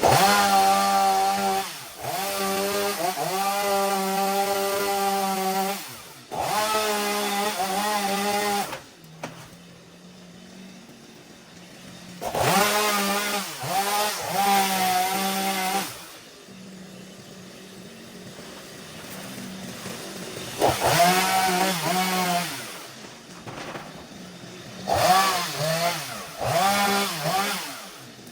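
Two-stroke chainsaw revved hard in five bursts of a few seconds each, falling back to idle between them; its pitch sags and recovers now and then as the chain bites into wood.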